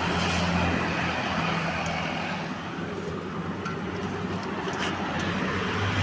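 Old Suzuki car's engine running steadily on LPG from a 3 kg gas cylinder, a low hum that eases off a little in the middle and comes back up near the end.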